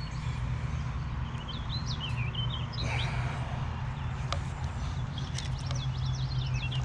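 Birds chirping, short rising and falling calls in two spells, over a steady low hum, with a few sharp clicks.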